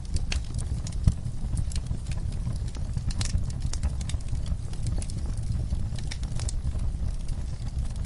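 Wood fire crackling: irregular sharp pops and snaps over a low steady rumble of burning flames, with one louder pop about a second in.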